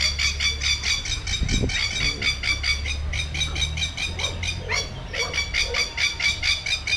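A black-and-white aviary bird calling loudly in a rapid, unbroken series of harsh notes, about five a second, over a low steady rumble.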